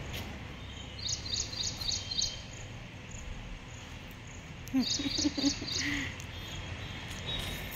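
A bird calling in two quick runs of four or five high chirps, over a steady low outdoor background hum.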